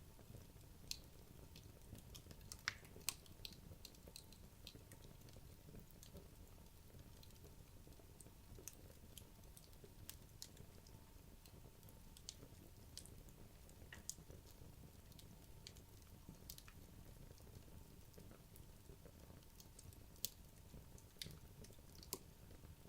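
Wood logs burning in a fireplace, crackling with faint, irregular snaps and pops over a low steady rumble, with a few sharper pops about three seconds in and again near the end.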